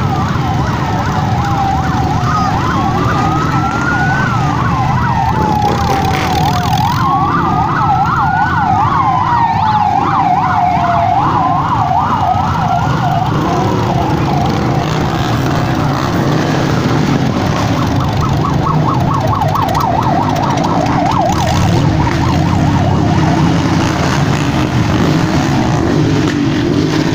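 Electronic siren going through slow rising-and-falling wails and a fast yelp for about the first half, then a fainter fast yelp a little past the middle, over the steady rumble of motorcycle engines.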